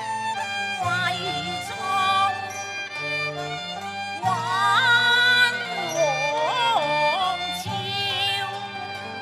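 Cantonese opera ensemble playing a melodic passage, led by a bowed fiddle line that slides and wavers between notes, over sustained lower accompaniment.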